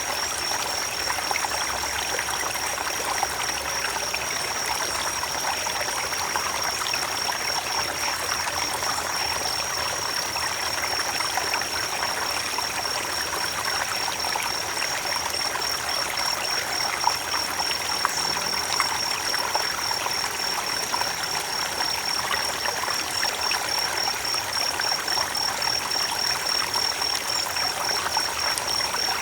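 Creek water flowing steadily, with a continuous high-pitched warbling tone above it.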